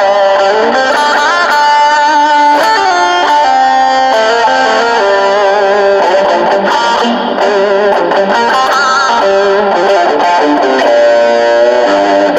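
Electric guitar played loud through a Super Overdrive pedal with the drive all the way up and the treble pushed, plus a cavernous reverb/delay whose repeats cut off quickly, aiming at the 'brown sound' tone. It plays single-note lead lines with string bends and vibrato.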